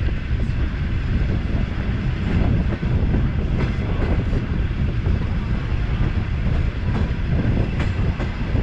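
Passenger train carriage running on the rails, a steady rumble and rattle with a few sharp knocks from the wheels over rail joints.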